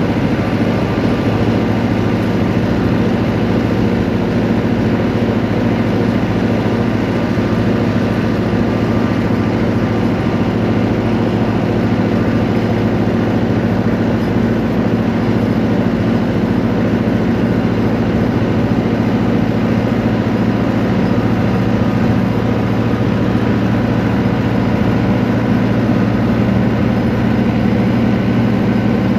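A vehicle's engine running steadily, with an even low hum over road noise and no change in speed.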